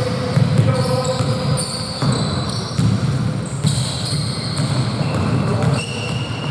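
Basketball game in play: the ball bouncing on the court, sneakers squeaking on the floor again and again, and players' voices.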